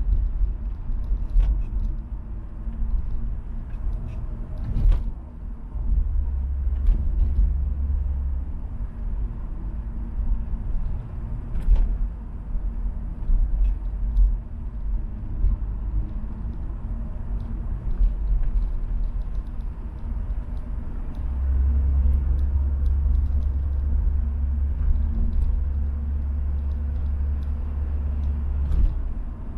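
Peugeot 505 GTD's four-cylinder turbodiesel engine and road noise while driving: a steady low drone that swells twice, with a few short knocks.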